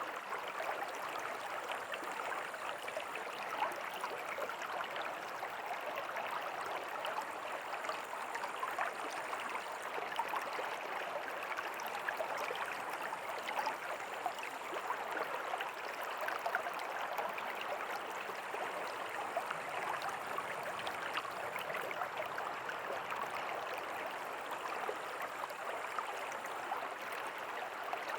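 River water flowing and burbling over rocks, a steady, even rush with fine splashing detail.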